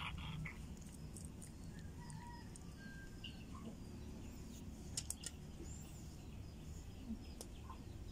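A few faint, short bird chirps and a couple of soft clicks over a low, steady hum.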